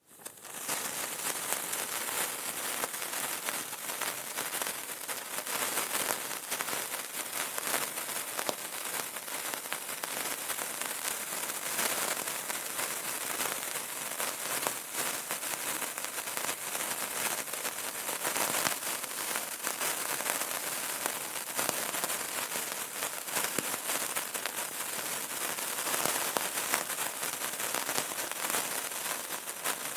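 Burning candle crackling: a dense, steady patter of tiny crackles and pops over a soft hiss, fading in at the start.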